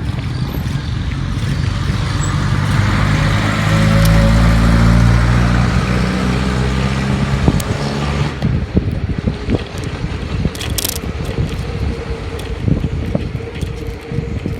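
A motor vehicle's engine passing close by on the road, rising to its loudest about four to five seconds in and fading by about eight seconds, then wind buffeting the microphone.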